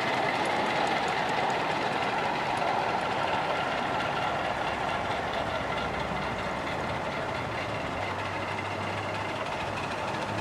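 A miniature ride-on railway train running along the track with a steady rolling noise. A low steady hum comes in about two-thirds of the way through.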